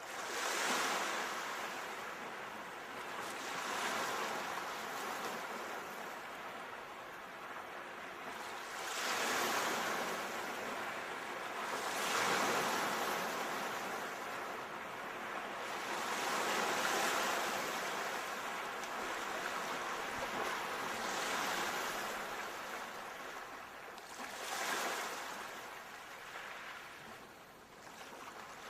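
Ocean surf: waves breaking and washing up in a steady cycle, each rushing swell rising and falling away every few seconds, about seven in all.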